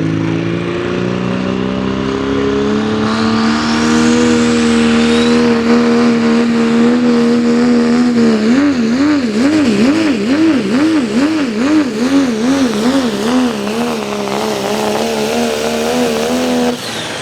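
Diesel 4x4 pulling truck under full throttle dragging the sled: the engine climbs in revs over the first few seconds and then holds high. From about halfway the revs waver rapidly up and down, about twice a second, before steadying. Near the end the engine cuts off sharply as the run ends.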